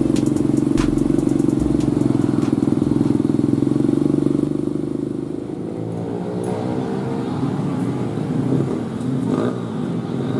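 Kawasaki KLX single-cylinder four-stroke running through a GP7 aftermarket exhaust: a steady engine note with a few sharp ticks in the first seconds. About halfway in, the pitch falls away and the note turns uneven.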